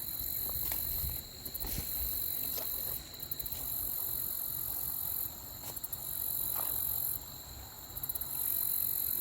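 Insects chirping outdoors: a steady high ringing with a higher chirring that comes and goes in bouts every second or two, over the low steady rush of a stream and a few faint clicks.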